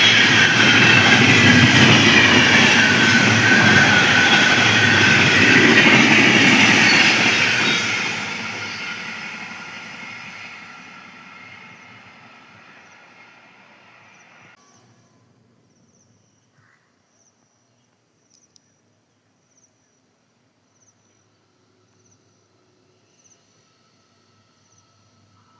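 Train running on rails: loud rumble and wheel noise for several seconds, then fading away steadily until it is gone about halfway through. After that, near silence with faint, regularly spaced ticks.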